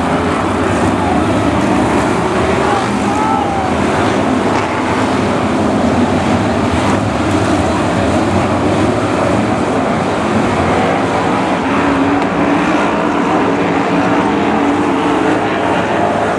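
A field of BriSCA F1 stock cars' V8 engines racing around the oval, a loud, steady wall of engine noise with engine pitch rising and falling as cars go by.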